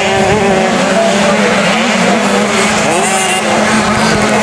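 Several 50cc two-stroke motocross bikes revving at once, their engine pitches rising and falling over each other, with one engine holding a steady note through most of the moment.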